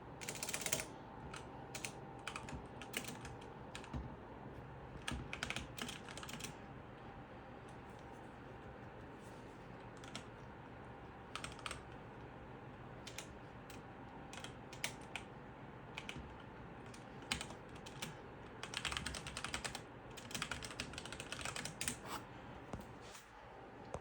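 Typing on a computer keyboard in several bursts of rapid key clicks, with short pauses between them.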